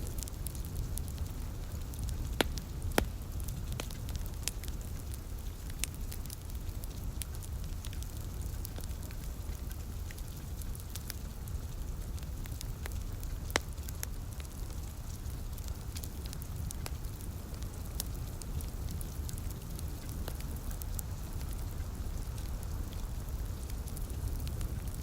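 Wood fire crackling, with scattered small clicks and a few sharper pops about two and a half, three and thirteen and a half seconds in, over a steady low rumble and light rain hiss.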